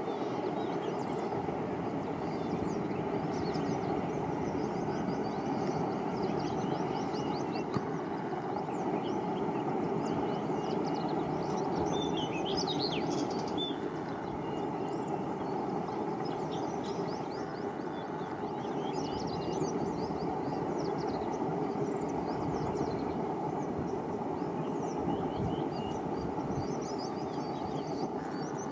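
A distant diesel-hauled train running steadily, heard as a low even rumble, most likely an ALCO-type diesel locomotive and its coaches. Birds chirp with many short, high calls over it throughout.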